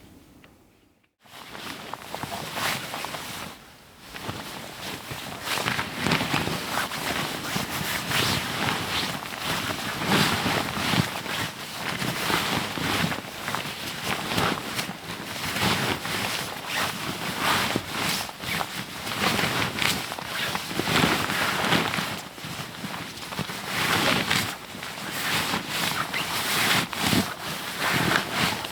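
Dense, continuous rustling and crinkling of camping gear being handled and packed up, with many quick crackles, starting just after a brief silence about a second in.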